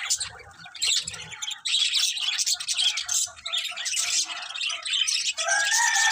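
Budgerigars chattering and warbling in fast, high chirps and squawks. A longer call with a stack of even tones comes in near the end.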